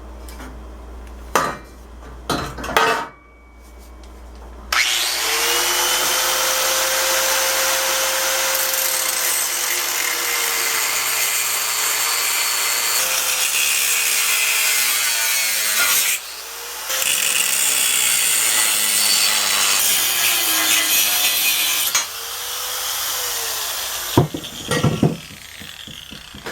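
Power saw cutting through a steel engine cross member, the motor's pitch sagging and recovering under load, with a brief stop about two-thirds of the way through. A few knocks of the metal being handled come before the cut starts and after it ends.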